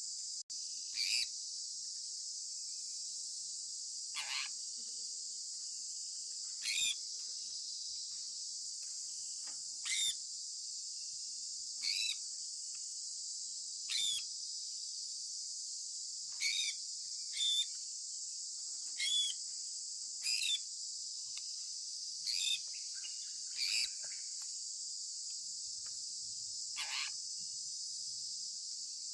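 Sun conure parrot giving about a dozen short chirps, one every second or two, some sweeping downward, over a steady high-pitched hiss.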